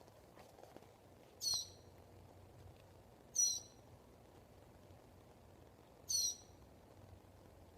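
A bird calling: three short, sharp, high-pitched calls a couple of seconds apart, over a faint steady hum.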